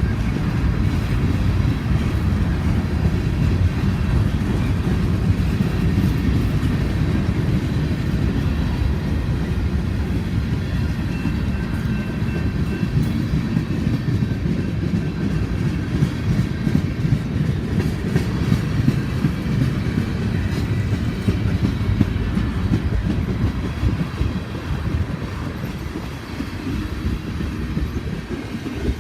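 Freight train cars rolling past: a steady heavy rumble with the clickety-clack of wheels over rail joints.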